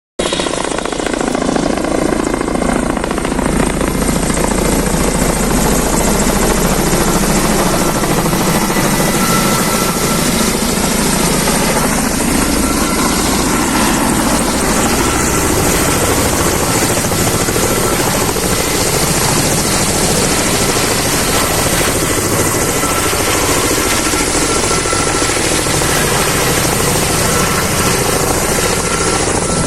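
Kamov Ka-32A coaxial-rotor helicopter holding near the ground while it takes on water, its rotors and twin turbine engines running loud and steady, with a thin high whine over the rotor noise.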